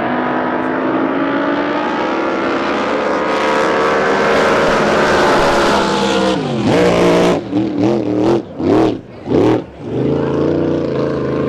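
Drag boat racing engine running hard, its pitch climbing slowly, then dropping off sharply as the throttle is lifted, followed by four quick throttle blips and a rough settle.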